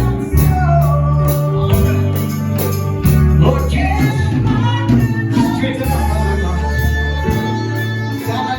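Gospel singing in a church service, with a tambourine beating a steady rhythm over a low bass line.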